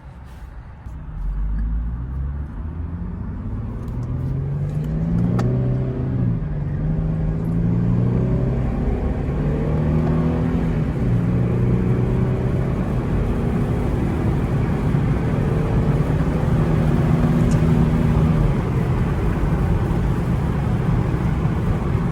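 Infiniti car engine accelerating hard, heard from inside the cabin. The revs climb, drop back twice as it shifts up (about five and ten seconds in), then climb again, with road noise building underneath.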